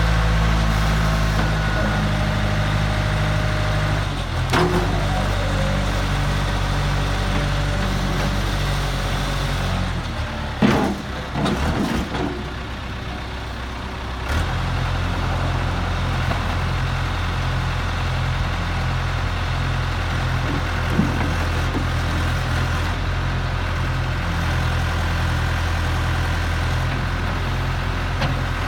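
John Deere 310D backhoe loader's four-cylinder diesel engine running steadily. Its note shifts about four seconds in, drops away for a few seconds midway while several clanks sound, then picks up to a steady, stronger run for the rest.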